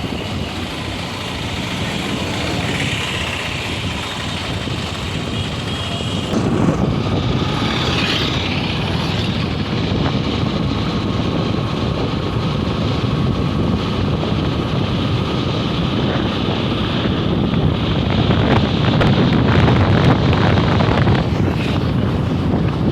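Steady rumble of road vehicles, with wind buffeting the microphone; it grows heavier about a quarter of the way in.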